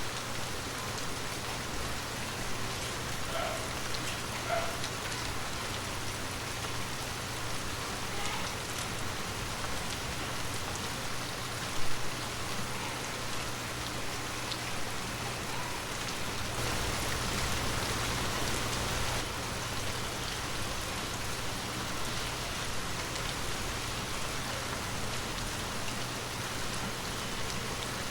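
Heavy rain falling steadily on hard ground, with a few louder single drop hits (the sharpest about twelve seconds in) and a brief swell of heavier rain a little past halfway.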